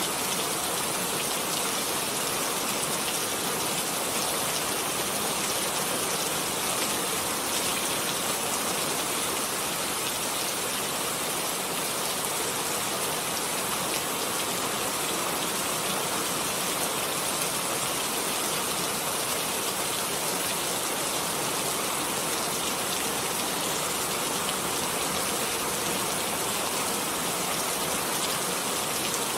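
Steady rainfall: a dense, even hiss of rain falling, with no single drops or thunder standing out.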